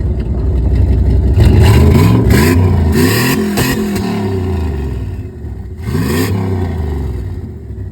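Dodge pickup's engine, newly fitted with a turbocharger, being revved in place. It idles, then the revs rise and fall several times from about a second and a half in, with one more blip at about six seconds before it drops back to idle.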